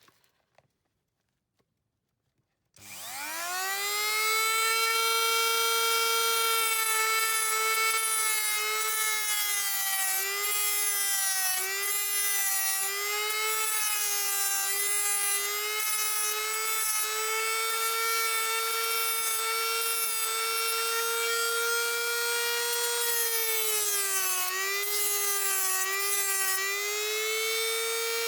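A small high-speed rotary power tool starts about three seconds in and runs steadily at a high whine, its pitch sagging briefly a few times as it bites under load.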